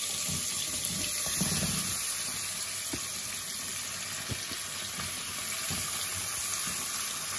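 Seasoned chicken feet sizzling in hot oil in a pot: a steady frying hiss with scattered knocks and clicks as pieces drop in and are moved around.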